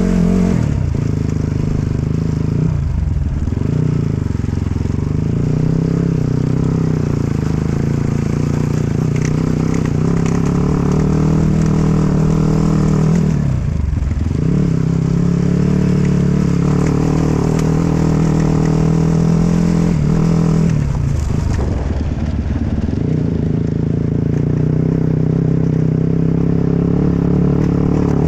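Enduro dirt bike engine running steadily under throttle, its pitch dipping briefly three times, near the start, about halfway and about two-thirds through, then picking up again.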